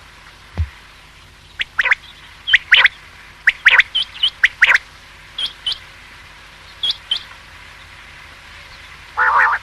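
Common quail calling: short, sharp notes in quick groups of two or three, repeated every second or so. A harsher, rougher burst comes near the end.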